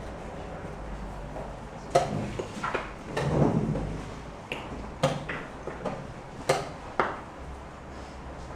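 Sharp wooden knocks of chess pieces being set down and a chess clock being pressed during a rapid game, about six knocks spread over several seconds, with a short rustle about three seconds in.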